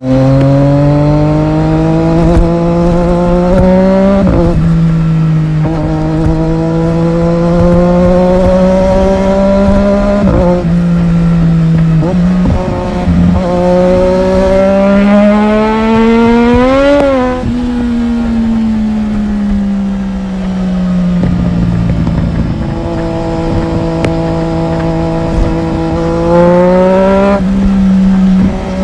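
Triumph Daytona 675R's inline three-cylinder engine running under load. Its pitch climbs steadily and then drops abruptly several times, about 4, 10 and 13 seconds in, like gear changes. It peaks about 17 seconds in, eases down for a few seconds, and climbs again near the end.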